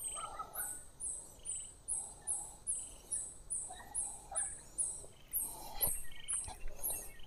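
Birds calling: a high chirp repeating evenly about two to three times a second, with scattered lower calls in between.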